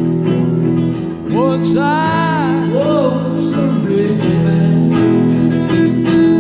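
Live blues band playing, with guitar strumming steady chords. A sung line bending in pitch comes in about a second in, and again near the end.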